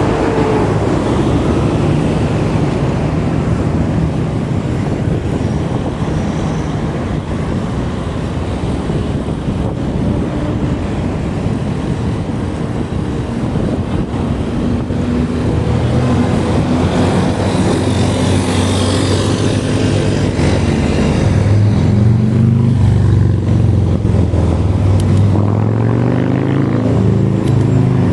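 Rushing wind noise on the microphone while riding, with road noise. In the second half a motor's hum steps up and down in pitch.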